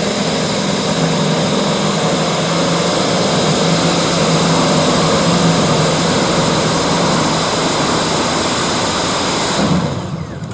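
Modified pulling tractor's engine running flat out under load as it drags the weight sled, a loud, steady, dense drone. It stops abruptly near the end.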